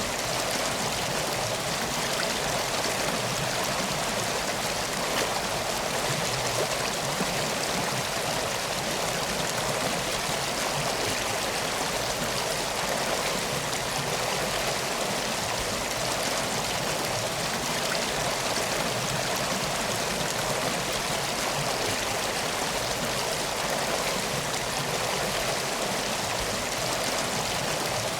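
Steady flowing water, a stream or river running at an even level with no breaks.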